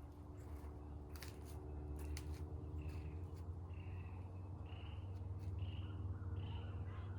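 A bird calling over and over, short repeated calls about one a second starting about three seconds in, over a steady low hum, with a few sharp clicks before the calls begin.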